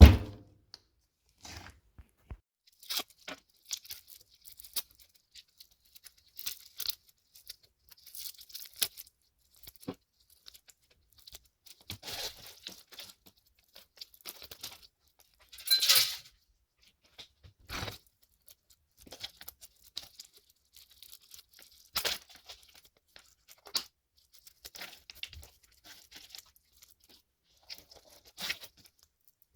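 Irregular scraping, clicking and tearing sounds of a microwave oven being taken apart by hand for scrap, with one louder tearing scrape about halfway through.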